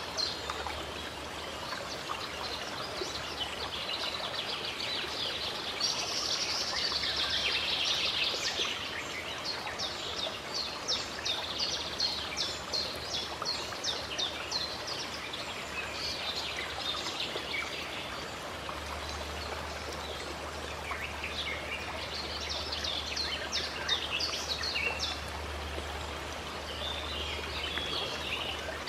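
A stream running steadily, with songbirds calling over it in bursts of quick repeated notes.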